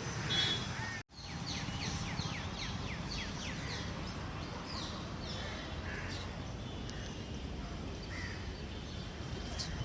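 Birds calling over a steady low background rumble: a quick run of falling chirps about a second and a half in, then scattered calls.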